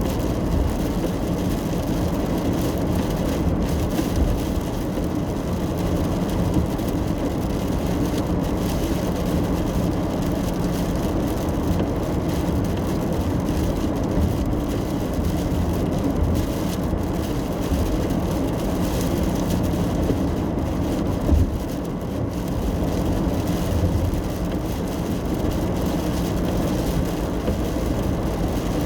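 Steady road and engine rumble heard from inside a moving car's cabin, with a low drone and a hiss of tyres on the road. A brief bump sounds about two-thirds of the way through.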